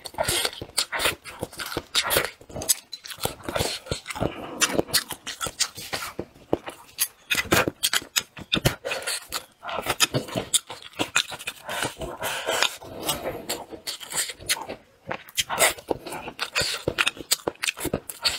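Close-miked eating sounds: a person chewing braised fish with wet mouth clicks and lip smacks in quick, irregular succession, pausing briefly now and then.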